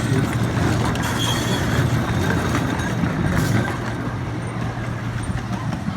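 Small diesel engine of a ride-on scale train running along the track with a steady low drone, a little quieter over the last two seconds.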